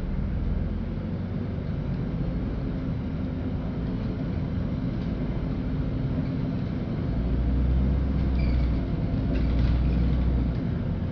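Cabin noise inside a LiAZ-5292.65 city bus on the move: a steady low engine and road rumble, swelling louder for a few seconds in the second half, with a few faint rattles.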